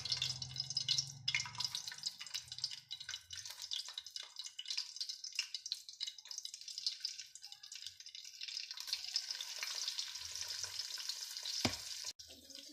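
Hot ghee sizzling and crackling in a metal pot as whole cloves, green cardamom and dry fruits fry in it, with a steady hiss full of small pops.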